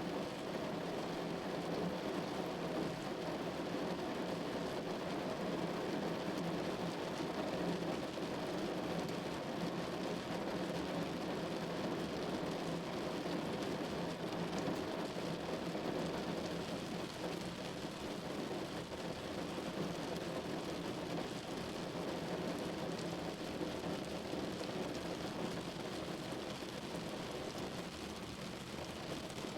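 Steady rain falling and pattering on a surface, an even continuous hiss with no clear breaks.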